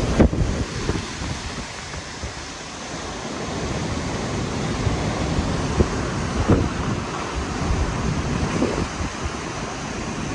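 Hurricane wind and wind-driven water: a dense, even rushing noise with gusts buffeting the microphone. It eases briefly about two seconds in, then builds again.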